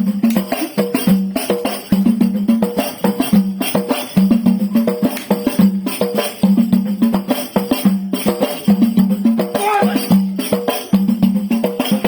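Lively percussion music: a steady, repeating drum pattern with rapid jingling and clacking hits over it.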